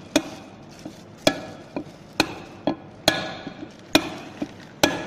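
Hammer striking metal, heavy blows about once a second, each followed by a short ringing, with lighter taps in between.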